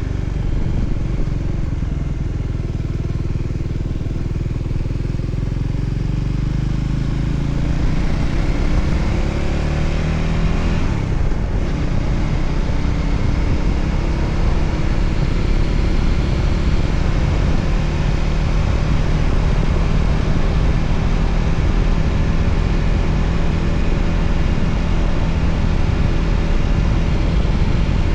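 A Voge 300ACX motorcycle's single-cylinder engine running under way with wind and road noise. Its note climbs as the bike accelerates over the first ten seconds or so, breaks briefly about eleven seconds in, then holds steady at cruising speed.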